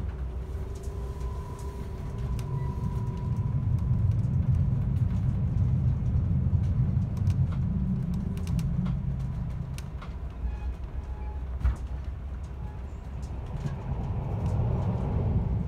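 Passenger train running, heard from inside the carriage: a steady low rumble of wheels on the track that swells and eases, with faint high ticks and one sharp click near the end.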